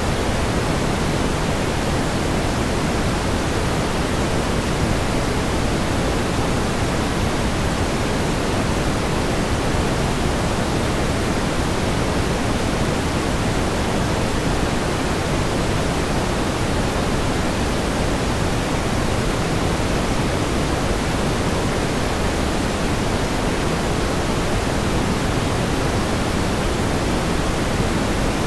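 Steady pink noise: an even, unbroken hiss, fuller in the low end and thinning toward the highs, at a constant level.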